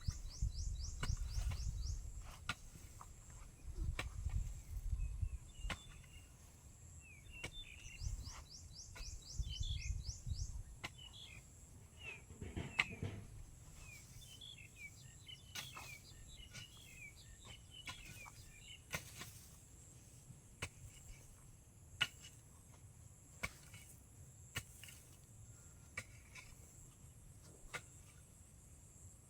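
Rural outdoor ambience: birds chirping with two quick high trills and a steady high insect drone, over low rumbling during the first ten seconds. Scattered sharp clicks or knocks run throughout.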